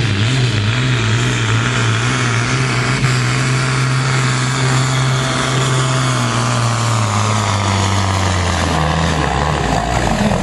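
A tractor engine running loud and steady, its pitch falling about seven to eight seconds in as the engine slows.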